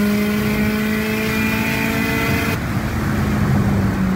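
Subaru Impreza's flat-four engine heard from inside the cabin, pulling steadily with its note slowly rising. About two and a half seconds in, the sound suddenly turns duller.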